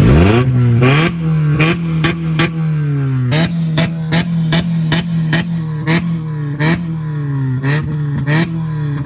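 Car engine being revved hard again and again: each rev jumps up with a sharp crack and then falls away, about once a second or a little faster.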